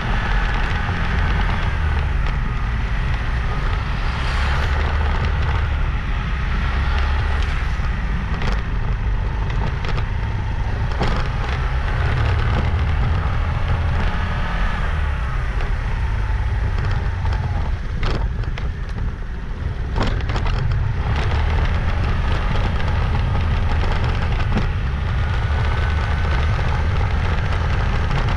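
Motorbike riding along a road: steady engine running with heavy low wind rumble on the microphone, its pitch rising and falling. Sharp clicks and knocks come now and then, most of them in the middle stretch.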